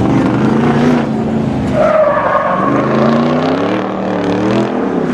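A vehicle engine revving up and down under hard throttle, with tires squealing from about two seconds in, as in a drifting run.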